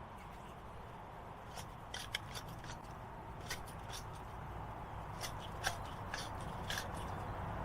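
Metal hand tools clicking and clinking against each other and the hub: about a dozen sharp, irregular clicks, some in quick pairs, over a steady low rumble.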